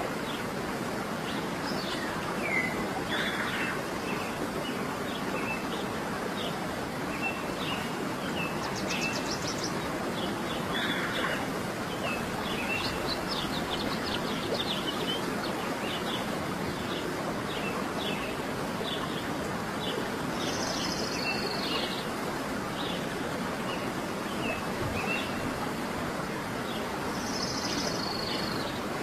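Several small birds chirping and calling: many short chirps, a quick high trill, and a few longer whistled calls near the end, over a steady rushing background noise.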